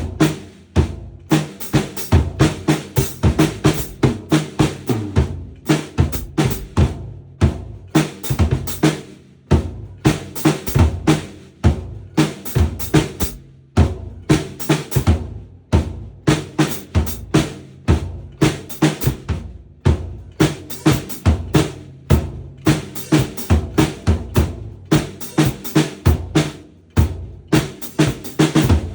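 Acoustic drum kit played by a beginner: a steady run of fast bass drum and snare strikes, with rimshots and short fills, and brief pauses between phrases.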